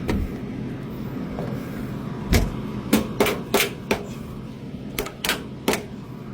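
Sheet-metal access panel of a rooftop air-conditioning unit being closed up: a string of sharp metal knocks and clicks, the loudest about two seconds in, several more in quick succession after it and a few near the end, over a steady low hum.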